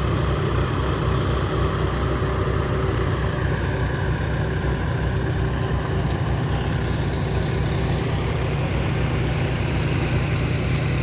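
Tractor diesel engine running steadily with an even low drone.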